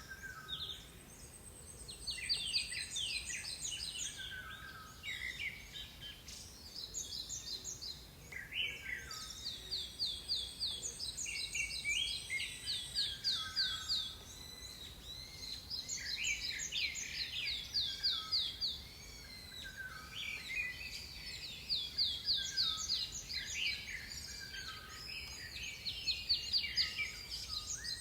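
Several forest songbirds singing at once, with rapid trilled phrases of many quick repeated notes coming in bouts every few seconds. A thin, high, steady note sounds now and then.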